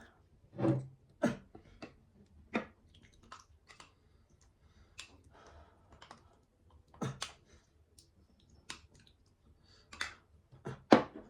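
Close-up eating sounds: a person chewing, with irregular wet mouth clicks and smacks, a few of them louder.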